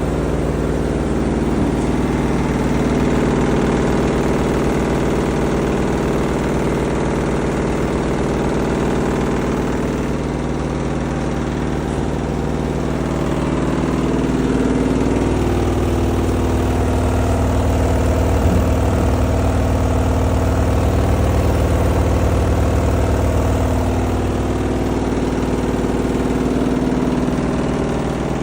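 Front-load washing machine running with a steady mechanical hum and drone. A deeper low rumble builds about halfway through and fades again near the end. The noise is put forward as a fault in the machine.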